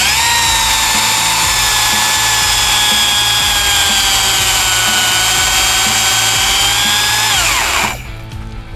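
Small gas chainsaw held at full throttle, a loud high-pitched steady whine whose pitch sags slightly over about seven seconds, then falls away and stops near the end.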